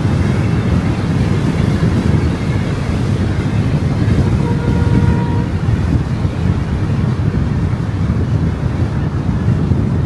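Steady road and wind noise from a car driving, heaviest in the low rumble. A short steady tone sounds for about a second, some four and a half seconds in.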